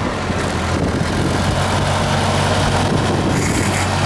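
Ford 8N tractor's four-cylinder flathead engine idling steadily.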